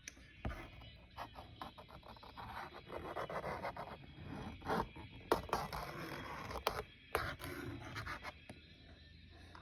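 Quick, irregular strokes of a pen scratching and scraping across a drawing surface while a snake is being drawn.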